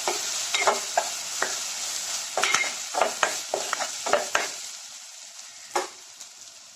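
Sliced onions frying in hot oil in a pressure cooker, with a spoon scraping and knocking against the pot as they are stirred. The stirring stops about four and a half seconds in, leaving the sizzle, which grows quieter, and one last knock near the end.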